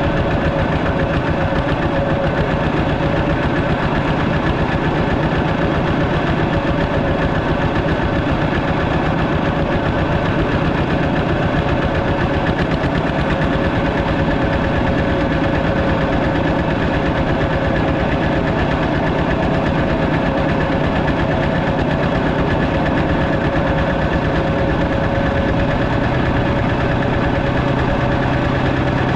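Walking tractor's engine running loud and steady at an even speed, with a rapid, regular firing pulse.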